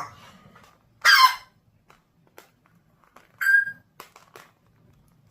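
A parrot giving two short, loud squeaky calls about two seconds apart, the second with a brief whistled note, with a few light clicks in between.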